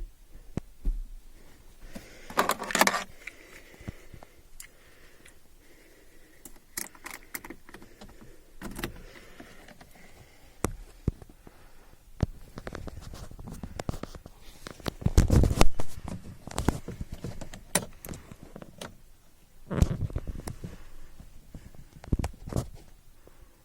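Keys jangling among irregular clicks, knocks and short rustles, the loudest cluster about two-thirds of the way through; no engine is running.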